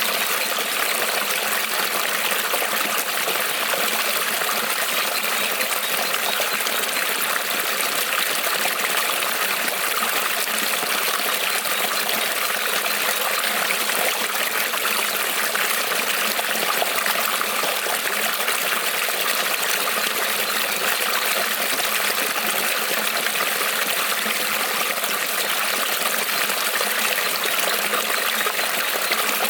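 Creek water rippling and trickling over stones, a steady unbroken rush.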